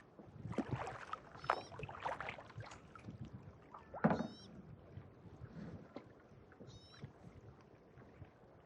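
Kayak paddle strokes: the blades dipping and splashing in calm lake water, the loudest splash about four seconds in. A short high chirp recurs about every two and a half seconds.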